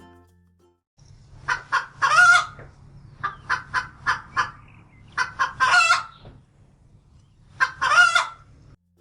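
Hen cackling: runs of short clucks, each ending in a longer, drawn-out squawk, heard three times over a low steady hum.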